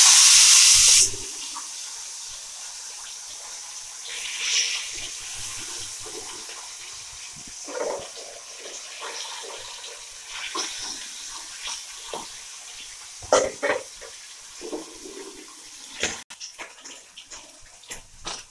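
Hilsa fish pieces frying in hot mustard oil in a frying pan: a loud burst of sizzle for about the first second as the fish meets the hot oil, then a steadier hiss with scattered sharp pops and clicks.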